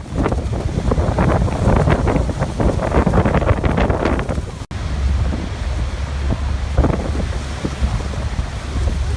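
Waterfall's water rushing, a steady, loud noise with a heavy low rumble; it cuts out for an instant about halfway through.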